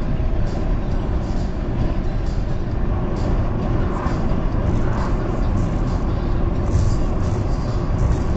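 Steady road noise of a car driving on a highway: a continuous low rumble of tyres and engine.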